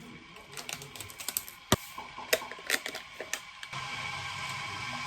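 Scattered light clicks and clacks of tableware: chopsticks and dishes knocking during a meal. From about three and a half seconds in they give way to a steady background hiss.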